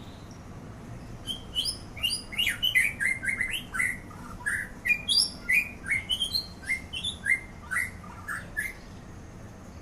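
White-rumped shama singing: a quick run of short whistled notes that jump between different pitches, starting about a second in and stopping near the end.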